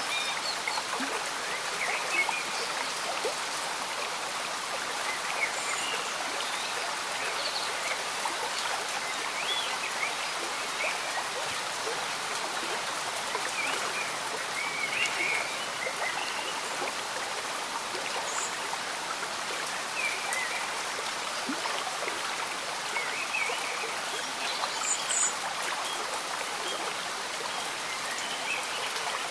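Gentle rain falling over a slow-moving, bubbling stream: a steady even wash of water noise, with small high blips scattered through it.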